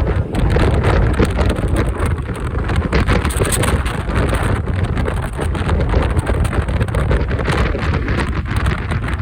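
Typhoon wind buffeting the microphone of a moving motorbike, a loud, gusting rumble that covers the bike's own engine and road noise.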